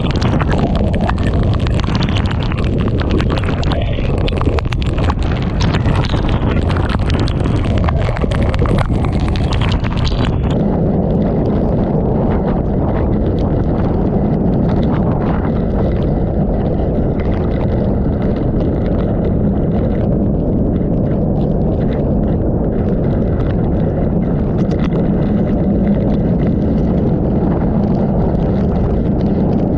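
Typhoon eyewall wind and torrential rain battering the microphone: a loud, steady rush of noise with wind buffeting. About ten seconds in, the high hiss drops away abruptly and the sound turns duller and lower.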